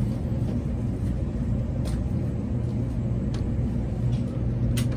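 Tokaido Shinkansen train running, heard from inside the passenger car: a steady low rumble and hum, with a few short high clicks.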